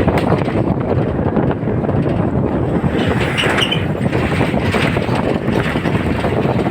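Wind buffeting the microphone: a loud, irregular rumbling noise.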